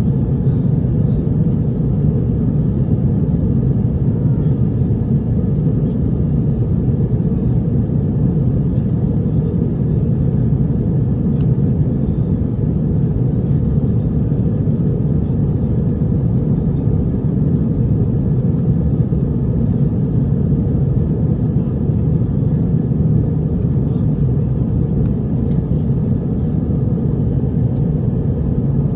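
Steady cabin roar of an Airbus A320 in flight: engine and rushing-air noise heard from inside the passenger cabin, deep and even throughout.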